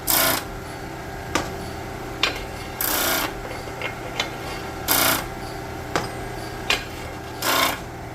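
A hand chamfering tool scraping the edges of steel connecting-rod big-end bores in four strokes about two seconds apart, each about half a second long, with light metal clicks between them as the rods are handled. The chamfer is cut so the bearing shell slides in without shaving its back.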